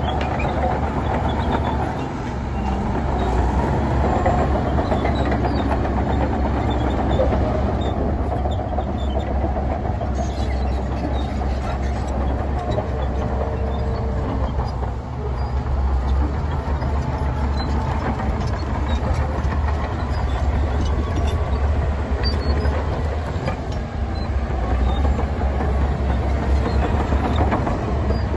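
Heavy diesel earthmoving machinery running steadily under load, a dense low engine rumble with clatter on top, easing off briefly a few times.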